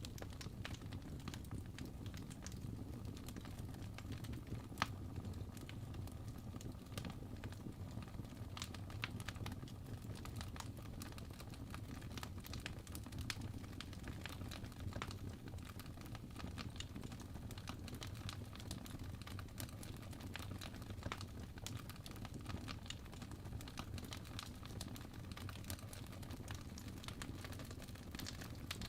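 Fire burning in a fireplace: constant irregular crackling and popping over a low steady rumble of flame, with one sharper pop about five seconds in.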